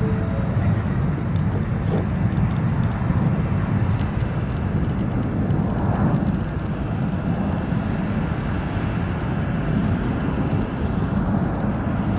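Aircraft engines at an airport, a steady low rumble.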